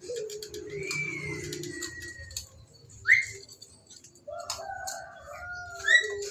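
Javan myna calling: a series of whistled notes and slides in pitch, with a short, loud rising whistle about three seconds in and another loud rising note near the end. Faint clicks and ticks sound in between.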